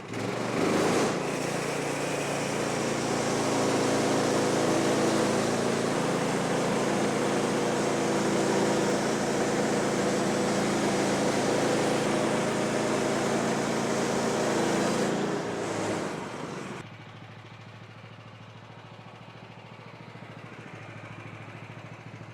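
Gas-engine bandsaw sawmill making a cut through a log: the engine runs loud and steady under load with the blade in the wood. About sixteen seconds in, the sound drops sharply to a quieter steady engine run as the cut ends.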